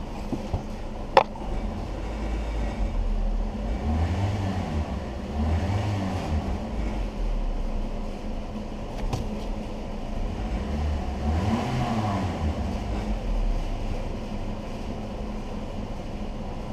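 2019 Toyota Corolla's 1.8-litre four-cylinder engine running, revved up and let fall back three times: about four, six and twelve seconds in. A sharp click about a second in.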